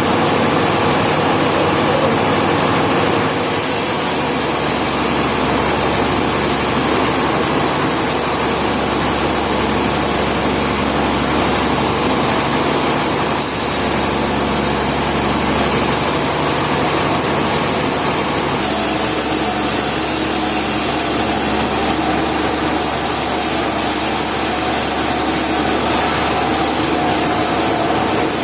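Sawmill running: a steady engine note under the noise of a saw working wood. The sound shifts about three and a half seconds in and again near eighteen seconds.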